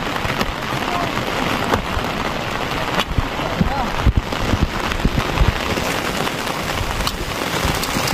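Steady rain falling, with scattered sharp taps of drops hitting nearby surfaces.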